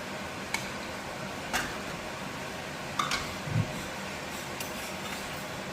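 A few light clinks and knocks of kitchen utensils against pans, about five in all, over a steady background hiss.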